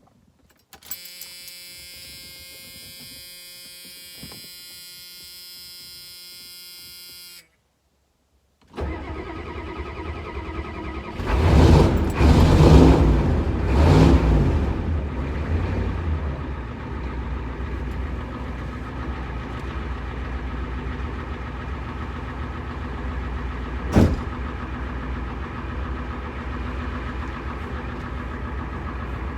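A steady buzzing tone for about six seconds, then after a brief pause the truck's engine starts, is revved two or three times, and settles into a steady idle. There is one sharp click late on.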